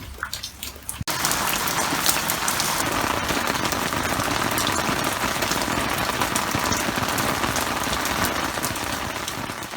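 Steady rain falling, a dense patter of drops that starts abruptly about a second in.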